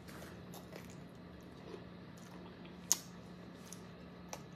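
Faint wet chewing and mouth clicks of someone eating chicken wings, with one sharper click about three seconds in, over a steady low hum.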